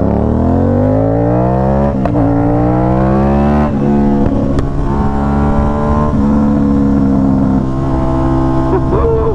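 Aprilia RS660 parallel-twin engine through an SC-Project S1 full titanium exhaust, accelerating with its pitch rising, upshifting about two seconds in and again near four seconds, then running at a steady pitch.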